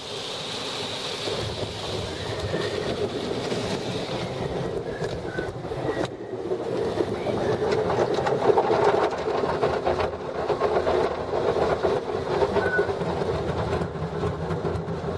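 Automatic car wash spraying water over the car and running its equipment, heard from inside the closed car: a steady rushing, rumbling noise that swells about eight seconds in.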